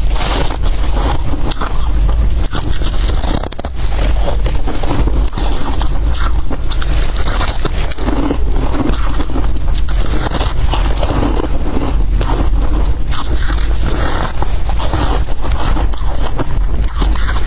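Freezer frost being bitten and crunched, a dense, continuous crackling and crunching with some scraping.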